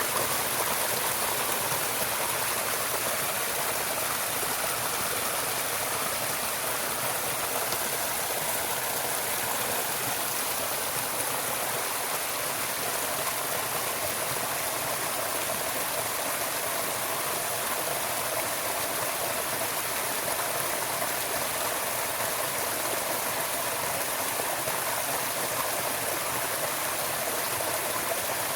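Running water from a stream, a steady rush without breaks.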